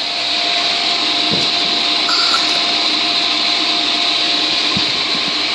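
Pool filter pump running steadily while air hisses out of the filter's opened air relief valve, bleeding trapped air from the system.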